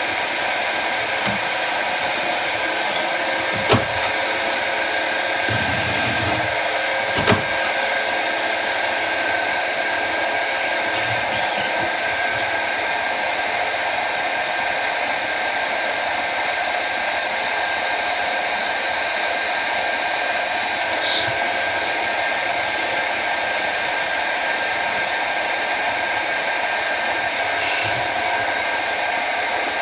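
Jet TL-25 lathe running steadily with a constant whir of motor and spindle. A couple of short knocks come in the first several seconds, and a higher hiss joins about nine seconds in.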